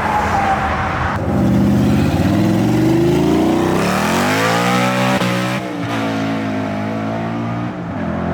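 A performance car's engine accelerating hard away under full throttle, the revs climbing steadily for a few seconds. There is a break about halfway through, like a gear change, after which the engine keeps running at a steadier pitch.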